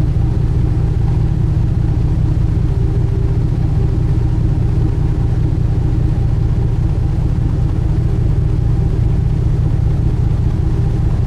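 Steady low drone of a sightseeing cruise ship's engines heard from on board, unchanging throughout.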